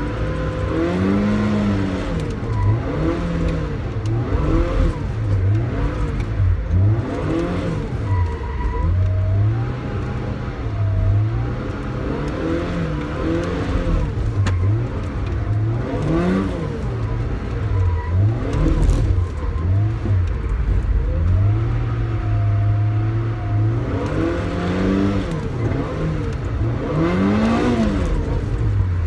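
Toyota AE86 Sprinter Trueno's four-cylinder engine heard from inside the cabin, revving up and dropping back over and over, with a few longer stretches held at steady revs, as the car is driven hard in drift practice.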